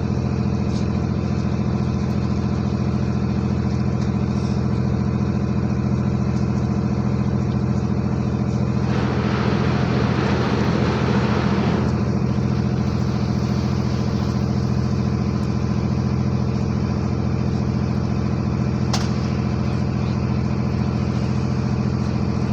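Ship's engine running with a steady low drone while the vessel manoeuvres to berth. About nine seconds in, a louder rushing noise joins it for about three seconds.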